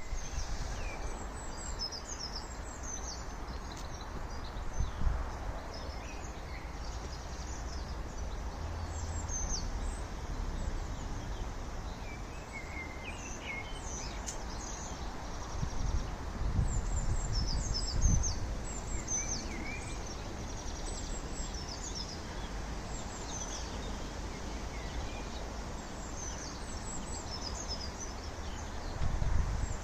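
Wild songbirds singing and chirping, many short high calls scattered throughout, over a steady background of outdoor noise with a few brief low bumps.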